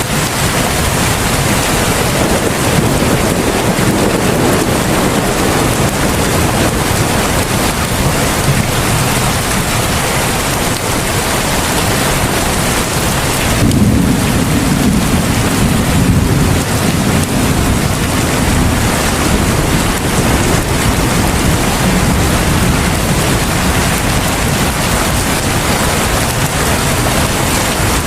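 Heavy rain falling steadily in a dense, even downpour. About halfway through, a low rumble swells up suddenly and fades out over several seconds.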